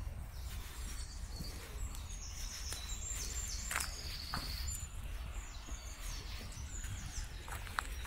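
A songbird sings high, quick trilled phrases for a couple of seconds about two seconds in, over a steady low rumble. Sharp crackles of footsteps on dry twigs and brush come and go.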